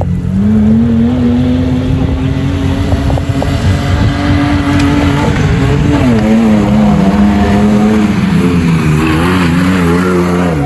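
An engine running hard at high revs. Its pitch climbs over the first few seconds, drops about six seconds in, then rises and falls as the throttle is worked.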